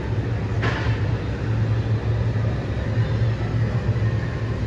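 Heavy demolition machinery running with a steady low engine rumble, with a short hiss about half a second in.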